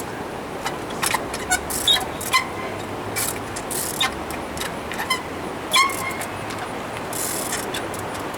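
Irregular sharp knocks and clicks, some with brief high squeaks, typical of a trials bicycle being hopped and landed on obstacles; no engine is running.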